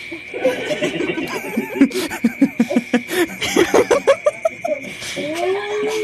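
A man laughing heartily in quick repeated bursts, over a steady high-pitched whine.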